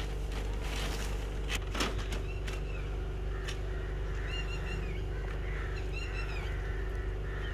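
A bird calling in a short series of arched chirps in the second half, over a steady low hum, with a few sharp knocks and rustles near the start.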